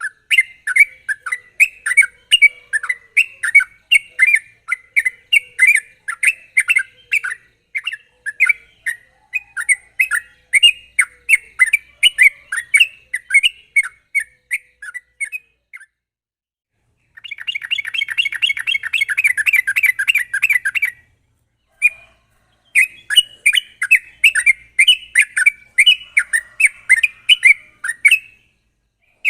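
Yellow-vented bulbul singing in a loud, rapid run of sharp chirping notes, about three or four a second. Past halfway it breaks into a faster, denser trill for a few seconds, with brief pauses before and after.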